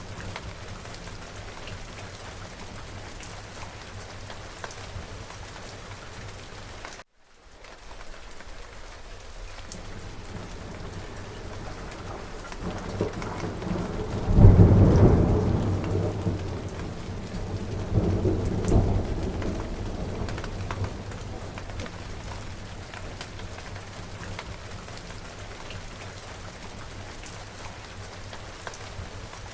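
Steady rain falling, with a thunderclap that builds from about twelve seconds in, booms loudest in the middle, then rolls on in a second rumble a few seconds later before fading back into the rain. The sound cuts out briefly about seven seconds in.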